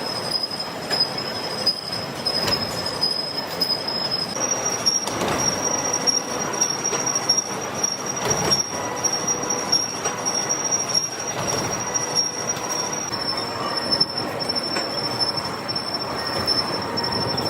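A metalworking machine tool running with a steady high-pitched squeal over a rough clattering noise; the squeal shifts slightly in pitch twice.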